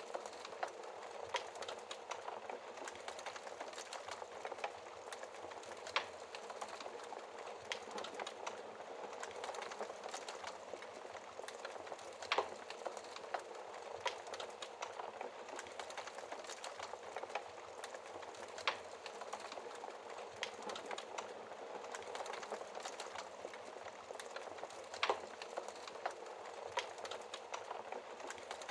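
Wood fire burning in a fireplace, crackling steadily with many small snaps and a louder pop about every six seconds.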